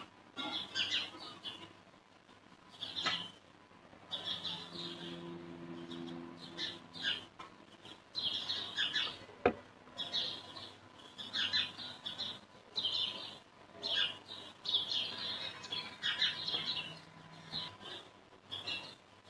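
Small birds chirping and tweeting over and over in short, high calls. A steady low hum runs for a few seconds near the start, and a single sharp click comes about halfway through.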